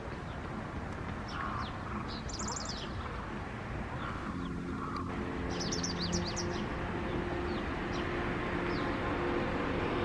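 Japanese wagtail singing: two bursts of quick, high, repeated chirps with scattered single short notes between. A steady low rumble runs underneath, with a low hum coming in about halfway.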